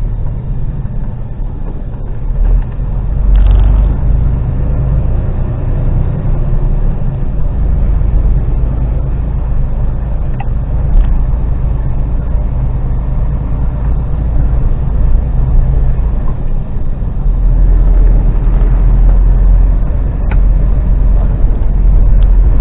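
Diesel engine of an articulated HGV lorry running as it drives, a steady low drone that gets louder about two-thirds of the way through.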